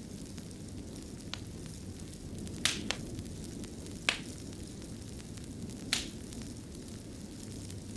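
Wood fire crackling in a stone fireplace: a steady low rumble of the flames with about five sharp pops from the burning wood, two of them close together a little under 3 seconds in.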